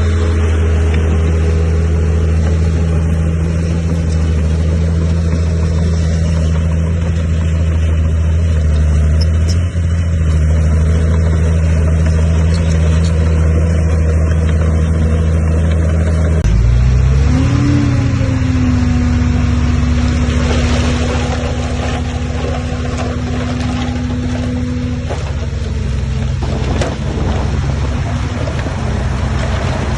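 Heavy diesel earthmoving machinery running under load with a steady engine note. About halfway through the note changes abruptly and rises, then holds at a higher pitch before easing off near the end.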